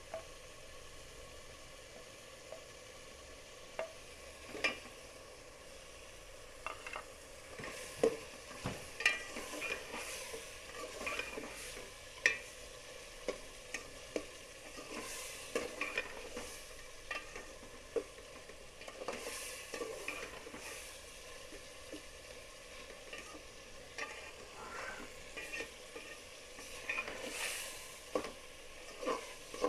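Chicken, tomato and spice masala for biryani frying in a pot with a steady sizzle, while a spoon stirs and scrapes through it, clicking and knocking against the pot many times at irregular intervals.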